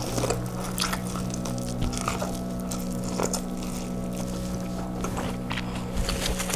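A steady low motor hum in the background, with intermittent clicks and smacking from eating and handling food close to the microphone.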